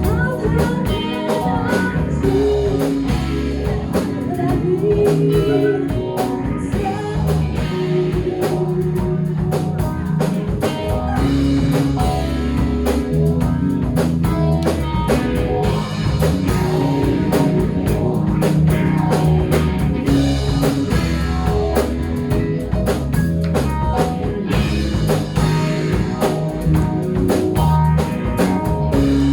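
A band playing live, full-band music with guitars, a drum kit and a strong bass line carrying on without a break.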